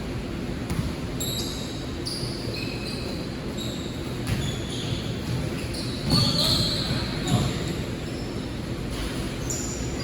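Basketball game play in a gym: a ball bouncing on the court, with short high squeaks like sneakers on the floor and voices in the hall. It grows louder for a moment a little past halfway.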